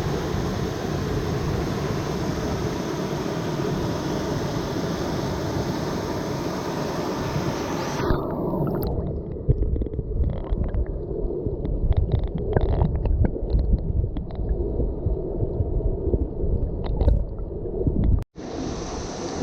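Hot-spring waterfall rushing steadily. About eight seconds in the sound turns muffled and low, with gurgling and rumbling, as the water is heard from underwater. The full rush returns after a sudden short break near the end.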